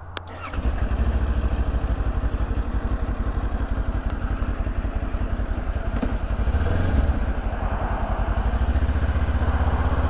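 Kawasaki Ninja 400's parallel-twin engine starting after a click, catching about half a second in and then idling with an even low pulse. It revs briefly about two-thirds of the way through.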